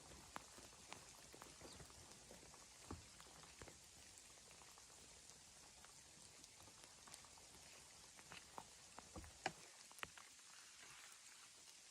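Near silence: a faint steady hiss with sparse small ticks and clicks, a few of them sharper about eight to ten seconds in.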